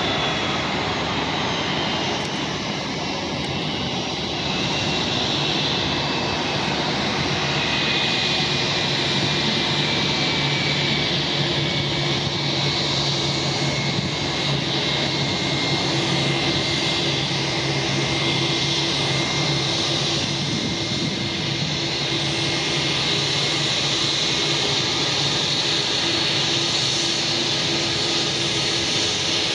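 Jet engines of an Airbus A320-232, its IAE V2500 turbofans, running steadily: a high whine over a constant rush.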